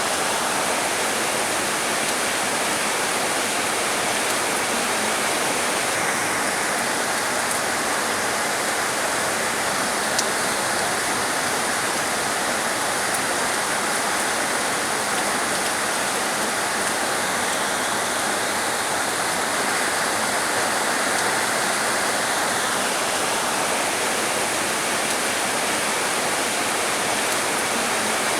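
Heavy rain falling steadily, a dense even hiss with no let-up, and one sharp tick about ten seconds in.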